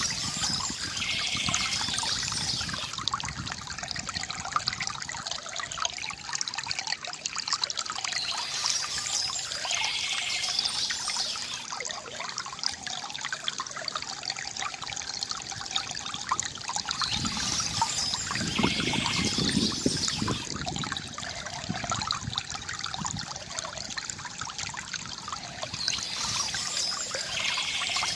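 Water from a bamboo fountain trickling and gurgling steadily, with a brighter splashing pattern that recurs about every nine seconds.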